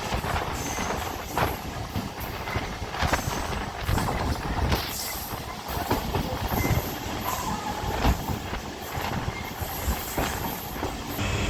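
MEMU electric multiple-unit train running on the line, its wheels clattering over rail joints with irregular sharp knocks over a continuous rumble.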